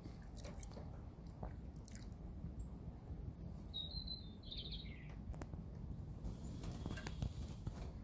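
A small bird chirping: a quick run of high, thin chirps about three seconds in, then a short call that falls in pitch, over a low steady rumble with faint scattered clicks.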